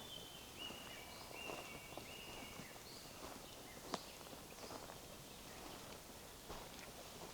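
Footsteps crunching softly on a forest path, with a songbird singing a run of high whistled notes in the first three seconds. A single sharp click about four seconds in is the loudest sound.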